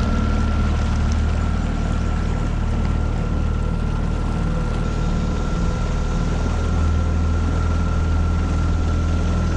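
A 9.8 hp Tohatsu four-stroke outboard motor running steadily under way on a small V-bottom boat: a low, even engine drone with a thin high whine above it.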